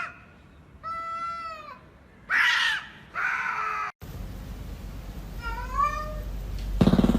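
Domestic cats meowing: three meows in the first half, then after an abrupt change of background one more meow that rises and falls, followed near the end by a loud thump.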